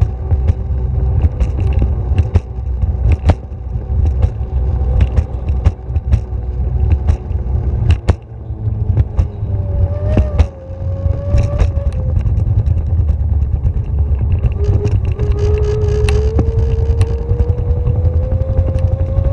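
Ride aboard a moving vehicle: a steady low rumble with a motor whine that rises slowly in pitch over the second half, and scattered clicks and rattles.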